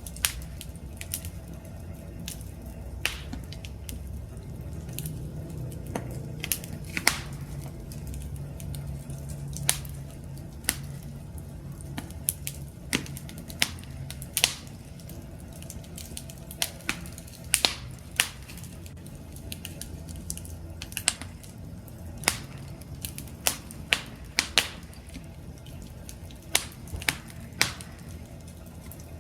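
Wood fire crackling: irregular sharp pops and snaps, several clustered at times, over a steady low rumble of burning.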